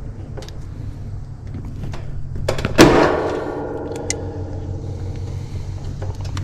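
Light clicks of metal tools being handled, then one sharp metallic clank about three seconds in that rings briefly. A steady low hum runs underneath.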